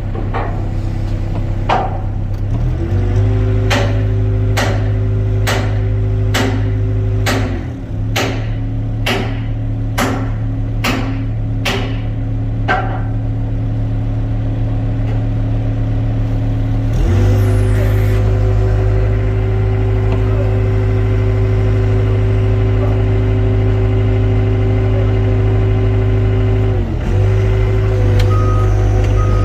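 Excavator diesel engine running and revving up under hydraulic load twice, each time holding the higher speed for several seconds before dropping back. For the first dozen seconds, sharp knocks sound about one and a half times a second, and short beeps come in near the end.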